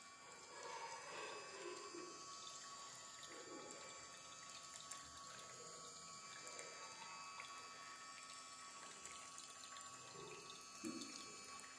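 Faint trickling and splashing of water from a small water fountain.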